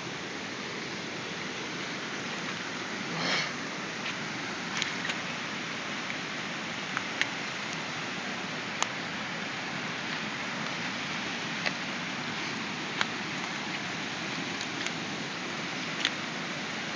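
Storm runoff rushing through a backyard and water bubbling up out of the ground, a steady wash of flowing water with scattered sharp drips and splashes and a short louder surge about three seconds in.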